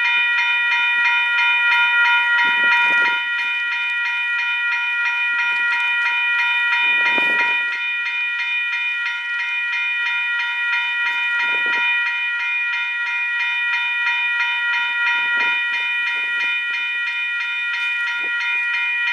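Grade-crossing bell ringing rapidly and steadily as a Union Pacific freight train rolls past, with a few low rumbles from the rail cars.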